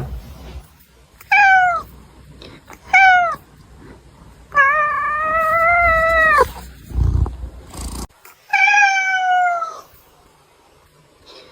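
A cat meowing four times: two short meows falling in pitch, then a long drawn-out one held for about two seconds, then another falling meow. A dull bump comes just before the last.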